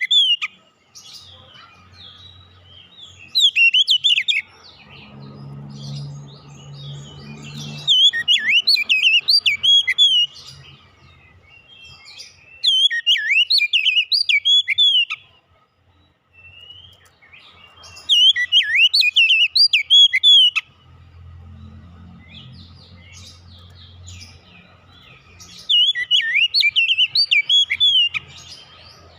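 Oriental magpie-robin (kacer) singing: bursts of rapid, varied whistles and chatter, each a couple of seconds long, repeated about every five seconds. A faint low hum runs between the bursts.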